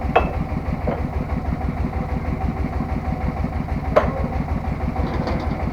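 Three-wheeled tractor's engine idling with a steady, even pulsing beat. Two brief clicks, one just after the start and one about four seconds in.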